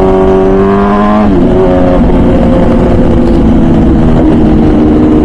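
MV Agusta Brutale 1000RR Nurburgring's inline-four engine with its full titanium Arrow exhaust, under way. The revs climb briefly, then fall sharply about a second in and hold steady at a lower pitch.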